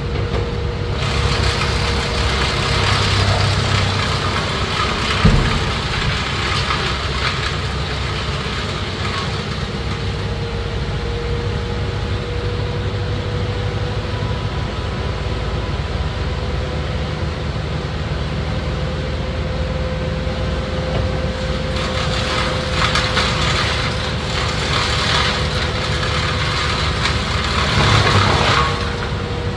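An engine of the tree-cutting equipment runs steadily at a near-constant pitch, with two long stretches of harsher, hissing noise laid over it, one early and one near the end, and a single sharp knock about five seconds in.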